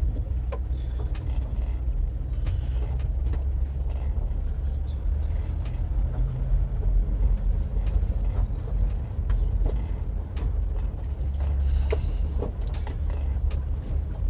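Inside a Volkswagen Caddy van creeping over a rough, potholed track: a steady low rumble from the engine and tyres, with frequent sharp knocks and rattles as the van bumps through the holes.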